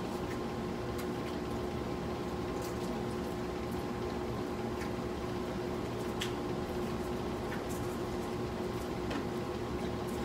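Wet, close-up chewing of crispy fried chicken, with scattered small crunchy clicks, over the steady hum of a room air conditioner.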